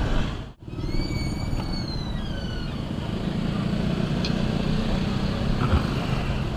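Road traffic on a highway: steady vehicle noise, with a high whine falling in pitch for about a second and a half, starting about a second in, as a vehicle goes by.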